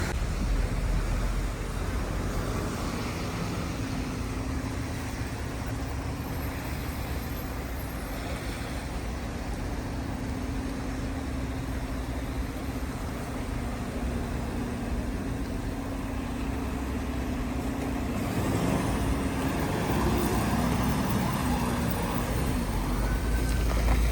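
City street traffic: motor vehicles running and passing, with a steady engine drone through the middle and busier, slightly louder traffic near the end.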